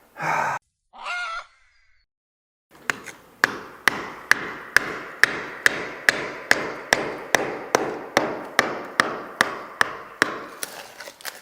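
Hammer driving a chisel into masonry in steady, evenly spaced blows, about two a second, each strike ringing briefly. A short animal call is heard near the start.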